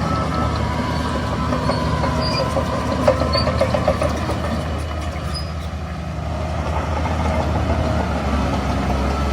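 Heavy diesel earthmoving machinery running steadily at a work site, with a sharp metallic knock and a brief run of rapid squeaks about three seconds in.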